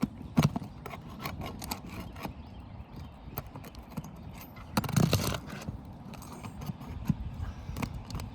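Hand tools working at roof shingles and their nails: scattered sharp clicks and knocks, with a louder scraping rattle of knocks about five seconds in, as the nails are pried out.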